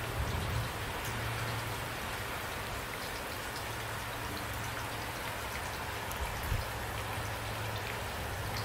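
Steady rain, drops pattering on a surface, with two brief low thumps: one just after the start and one about six and a half seconds in.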